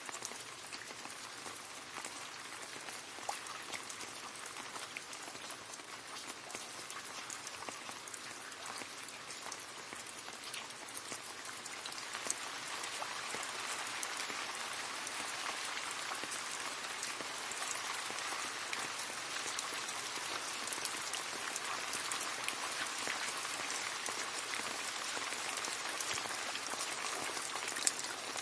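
Rain falling into a puddle: a steady patter with many small drop splashes, growing heavier a little under halfway through.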